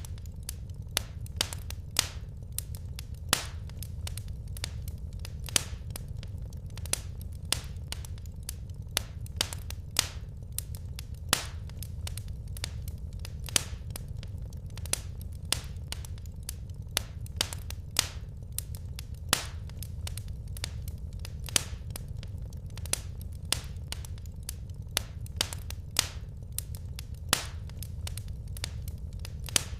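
Wood fire crackling in a fireplace: irregular sharp snaps and pops, sometimes several in quick succession, over a steady low rumble.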